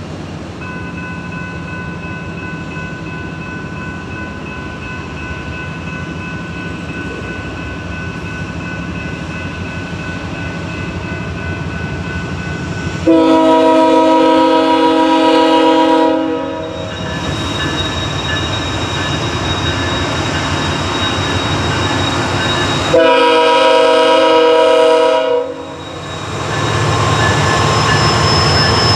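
Amtrak passenger train led by two GE P42DC locomotives approaching and passing, its rumble growing steadily louder. The locomotive horn sounds two long blasts, the first about halfway through and the second some ten seconds later, and the rumble is loudest near the end.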